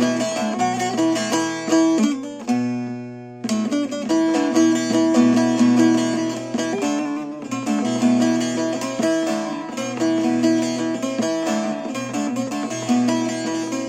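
Instrumental music on a plucked string instrument, quick runs of notes over a low sustained tone, with a short break about three seconds in before the playing resumes.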